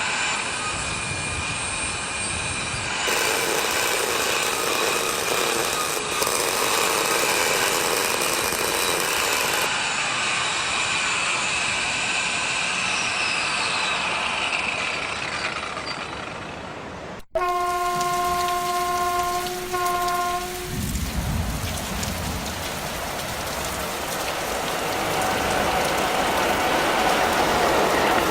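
Dubbed railway sound effects: a train running with a steady tone and noise, cut off abruptly about 17 seconds in. A multi-tone train horn then sounds for about three seconds with a brief break near the end, followed by a low rumble that grows louder as a train approaches.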